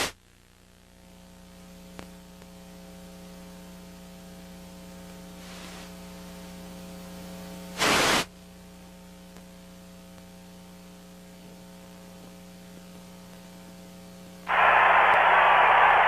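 Dead broadcast audio line after the earthquake cut the TV feed: a steady electrical mains hum with many even overtones, a brief loud burst of static about eight seconds in, then loud, steady static hiss near the end.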